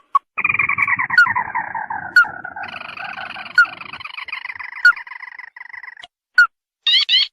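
Recorded lure calls of the ruddy-breasted crake: a long rattling trill that falls in pitch over several seconds. Short sharp call notes cut in about once a second, and a quick burst of rising notes comes near the end.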